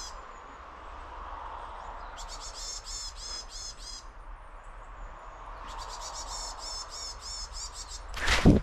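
A small songbird calling in three quick runs of rapid repeated high notes, with pauses between them. Near the end comes a loud crunch of the dog's paws in snow as it sets off.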